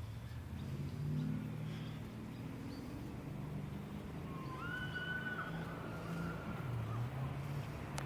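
An engine running steadily at a low idle, with a few short whistled bird calls about halfway through.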